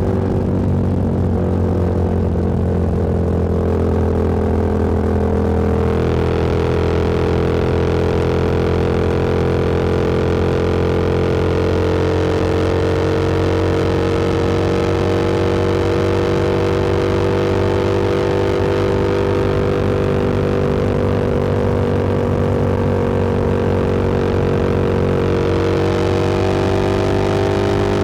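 Motorcycle engine cruising at a steady speed, its pitch drifting slowly up and down with small throttle changes, with wind and road noise over it that grows a few seconds in.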